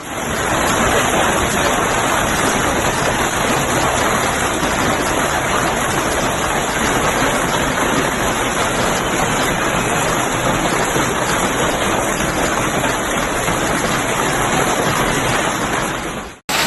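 Heavy hail and rain falling and striking surfaces, a loud, dense, steady noise that cuts off suddenly near the end.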